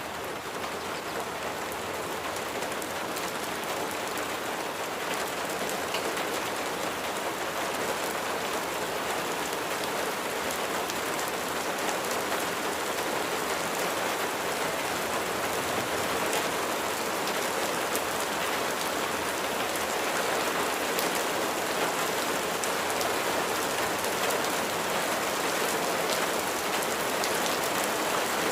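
Steady rain falling, an even hiss dotted with the ticks of individual drops, growing slightly louder as it goes.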